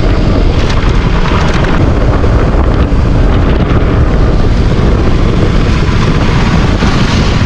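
Heavy wind buffeting on the action-camera microphone of a moving KTM RC 200 motorcycle, with its single-cylinder engine running underneath.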